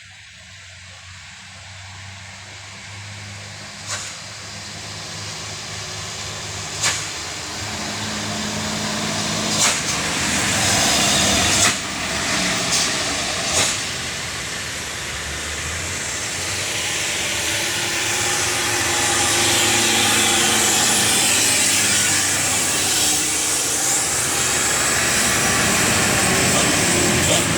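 Heavy dump truck's diesel engine running and drawing closer in heavy rain, with a steady hiss of rain and wet-road spray. The sound grows steadily louder, and a few sharp clicks come in the first half.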